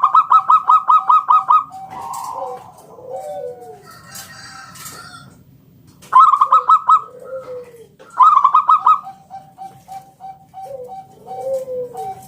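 Zebra dove (perkutut) cooing, with low curved coos and a string of short even notes. Three fast runs of sharper, higher pulsed notes come near the start, about six seconds in and about eight seconds in.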